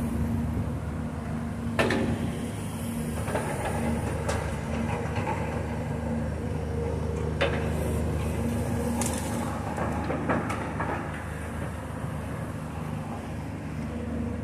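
Steady diesel engine hum of heavy demolition machinery running, with a few sharp knocks and clanks about 2, 7 and 10 seconds in.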